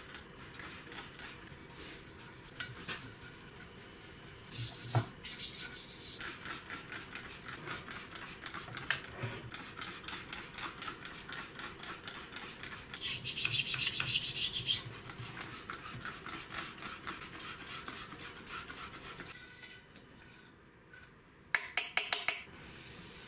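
Hand rubbing strokes on the Y-axis slide of a Schaublin SV-12 milling machine, quick and even at about three strokes a second. About two-thirds of the way through there is a steadier hiss lasting about two seconds, and near the end comes a quick run of sharp clicks.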